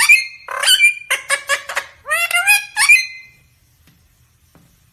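A parrot giving a rapid series of loud, squawking calls for about three seconds, then falling silent.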